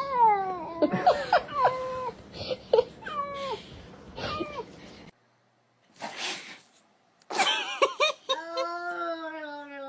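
Cat meowing repeatedly, a string of short calls that fall in pitch. After a sudden cut to silence and a brief burst of noise, a long, drawn-out, slightly wavering cry is held for a couple of seconds.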